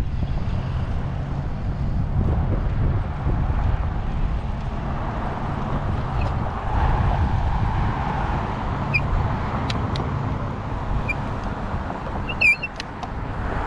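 Riding a bicycle along a road: steady wind rumble on the microphone with car traffic passing, one car swelling by in the middle. A few short high chirps, the loudest near the end.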